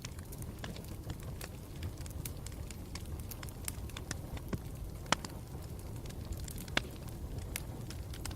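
Campfire burning steadily with a low rumble and frequent sharp crackles and pops, the loudest snaps about five seconds in and again near seven seconds.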